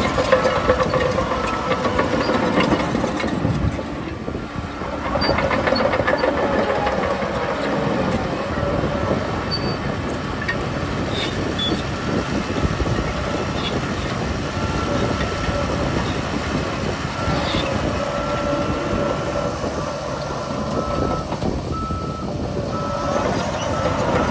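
Shantui bulldozer's diesel engine working under load with track clatter and clanking, and a reversing alarm beeping repeatedly through the second half.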